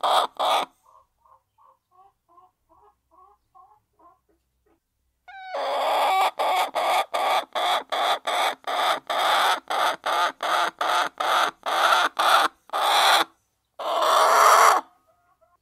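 Hens clucking softly for a few seconds, then one hen cackling loudly, a long run of squawking notes about three a second ending in one longer drawn-out note.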